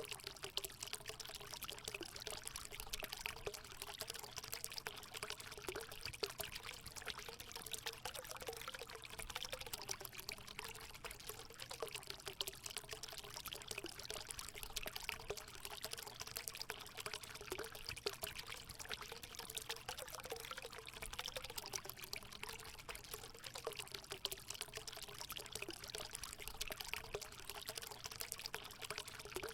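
Natural water running into a hot spring pool: a steady pouring splash with a wavering gurgle underneath.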